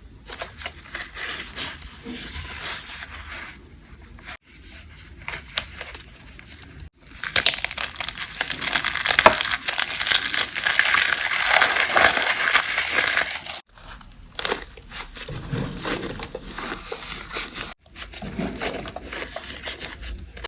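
Gym chalk and cornstarch being crushed, a dry crackling crunch, in several takes that cut off abruptly; the loudest stretch runs from about 7 to 14 seconds in.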